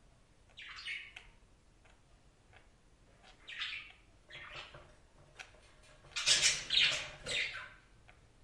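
Budgerigar chattering in short, raspy chirps and squawks, with a louder run of three or four calls near the end and faint clicks in between.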